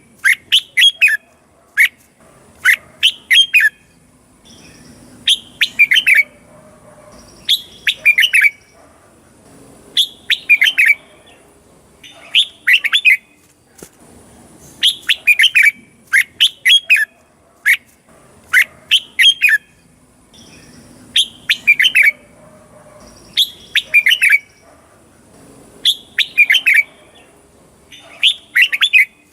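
Red-whiskered bulbul singing: short, bright phrases of quick chirping notes, repeated every couple of seconds and often given in quick pairs.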